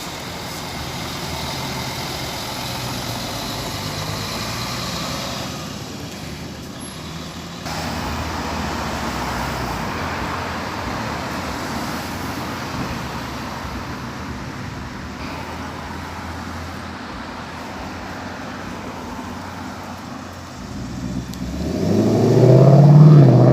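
Steady car and traffic noise. Near the end a car engine grows loud as it accelerates close by.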